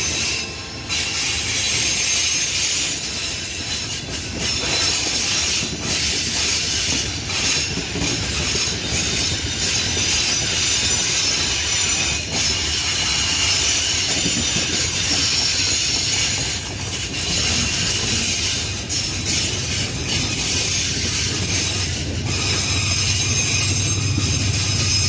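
Loaded freight wagons of a pig-iron train rolling past on steel wheels, with a steady high-pitched wheel squeal and scattered clicks over the rail joints. A low rumble builds near the end.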